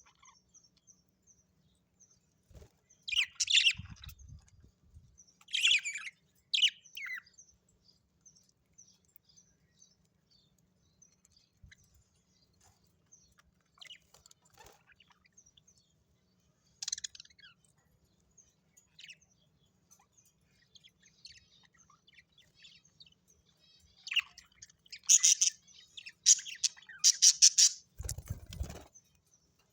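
Birds calling: several loud bursts of high chirping calls with faint chirps between them, the busiest stretch near the end. A short low thump comes with the last burst.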